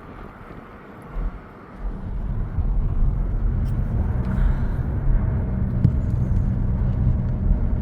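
Car driving, heard from inside the cabin: a low, steady rumble of engine and road noise that swells about two seconds in and then holds.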